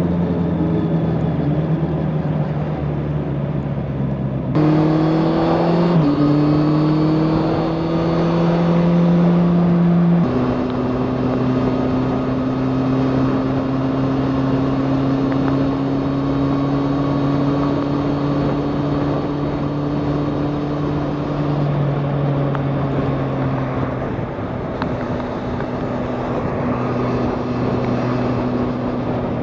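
Motorcycle engine under way: the revs jump up about four seconds in and climb, drop back at a gear change about ten seconds in, hold steady, then fall off twice near the end. Wind rushes over the mic throughout.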